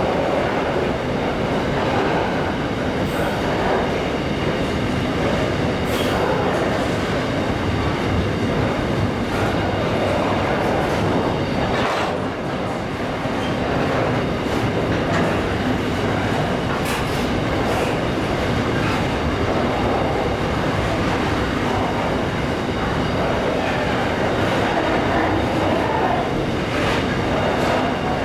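Container wagons of a long freight train rolling past: a steady rumble of steel wheels on the rails, with a few sharp clicks.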